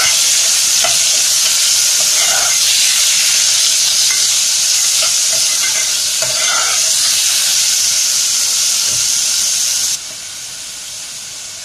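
Chicken pieces sizzling as they fry in hot oil with sautéed garlic and onion in a pan, stirred now and then. The sizzle drops abruptly quieter about ten seconds in.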